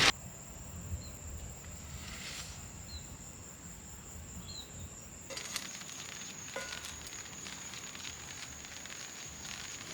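Quiet outdoor ambience: a steady high-pitched whine runs throughout, with three short faint chirps in the first half and a couple of soft clicks about five and a half and six and a half seconds in.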